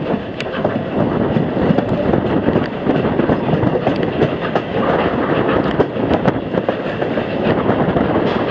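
Passenger railroad car rolling along the track behind a steam locomotive: a steady rumble and rattle of wheels on rail, with scattered sharp clicks.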